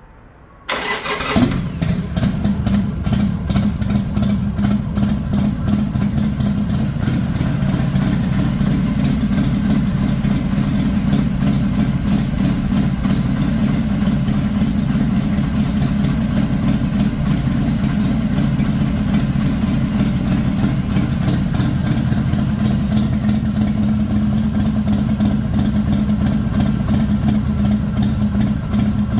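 Harley-Davidson Sportster XL883L's air-cooled 883 cc V-twin started about a second in, firing up at once, then idling steadily after its oil change.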